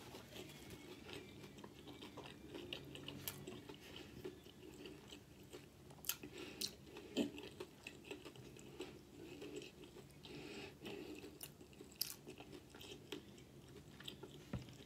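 Faint, close-miked chewing of a sandwich layered with Doritos tortilla chips, with scattered soft crunches and wet mouth clicks at irregular intervals.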